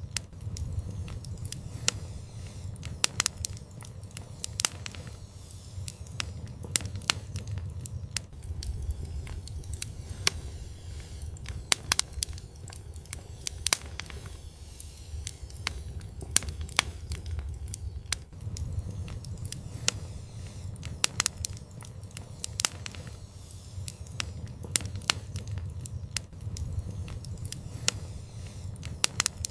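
Wood fire burning in an outdoor fireplace, crackling with frequent, irregular sharp pops over a steady low rumble.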